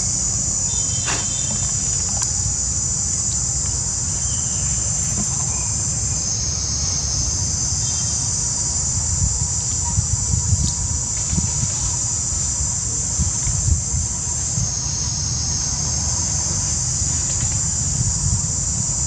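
A steady, high-pitched chorus of insects buzzing, shifting slightly about six seconds in and again near fifteen seconds, over a low rumble.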